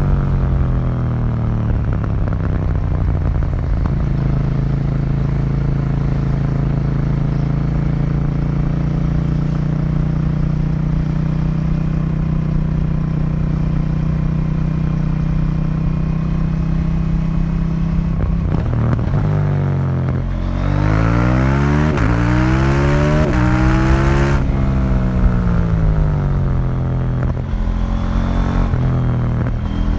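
2018 KTM 790 Duke's parallel-twin engine through its stock exhaust, heard from onboard with no wind noise. The engine note falls at first and then holds steady while cruising. About two-thirds of the way through it revs up hard through several quick gear changes, then drops and picks up again near the end.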